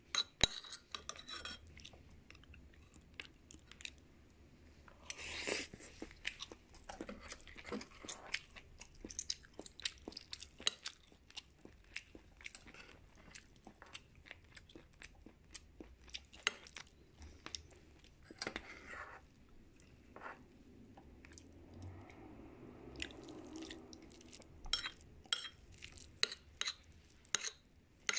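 Close-miked chewing and crunching of a chicken-and-tofu dish, with many small wet mouth clicks. A quick run of sharp clicks comes near the end.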